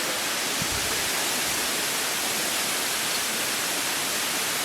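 Steady, even hiss of a waterfall, its water running over a rock face at lower-than-usual flow.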